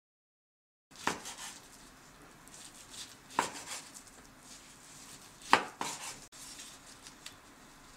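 Objects handled on a hard surface: three sharp knocks about two seconds apart, with lighter clicks and rustling between.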